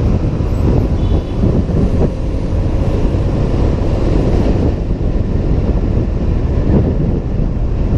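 Steady wind rushing over a helmet-mounted camera's microphone on a Honda PCX 125 scooter under way, mixed with the scooter's single-cylinder engine and road noise.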